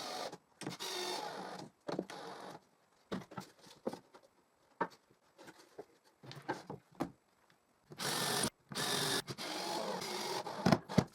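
Power screwdriver or drill driving screws into plywood in short runs of about a second each, with scattered clicks and knocks of handling between the runs.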